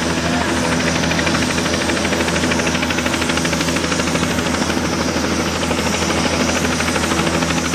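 Helicopter running on the ground with its rotor turning, a fast, even chopping over a steady engine and turbine drone.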